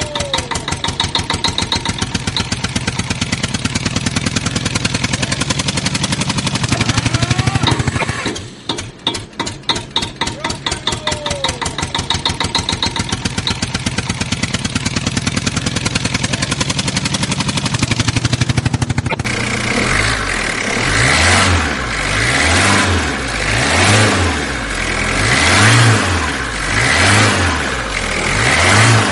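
Vehicle engine sound running with rapid, even firing pulses. It dips briefly about eight seconds in. From about nineteen seconds a different engine sound takes over, swelling and falling roughly every second and a half, like repeated revving.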